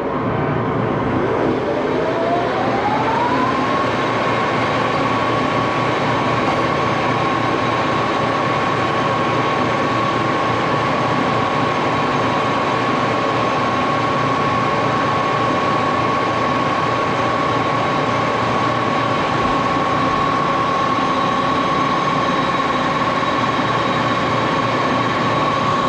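Axelson lathe running at its top spindle speed of 1127. A whine rises in pitch over the first few seconds as it comes up to speed, then holds a steady pitch over the running noise of the drive.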